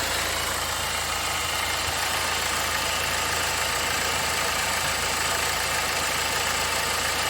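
BMW 320d's four-cylinder common-rail diesel engine idling steadily, its cylinder 3 misfire not showing at the moment.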